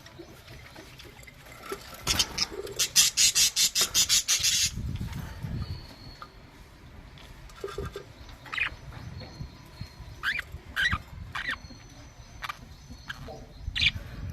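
Budgerigars in a colony aviary chirping, with short sharp calls scattered through the second half. A few seconds in, a fast run of sharp clicking pulses, about five a second, lasts some two seconds and is the loudest sound.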